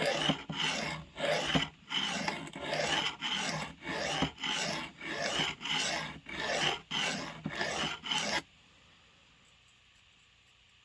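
A blade stroked back and forth across a sharpening stone, a rasping scrape about twice a second. The strokes stop abruptly about eight seconds in.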